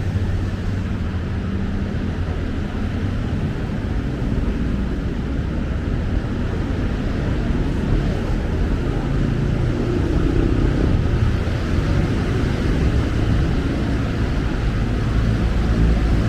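Steady city road traffic: engines of passing and idling vehicles, a continuous low rumble.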